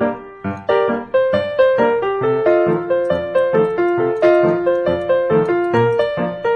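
Background music: piano playing a bouncy melody of quick notes over a bass line.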